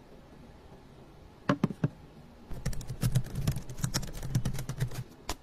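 A few sharp clicks, then a quick, irregular run of light taps and clicks for a couple of seconds, and one last click near the end.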